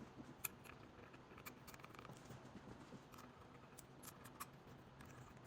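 Near silence with a few faint, scattered light clicks, as of small machined jam nuts being handled and fitted.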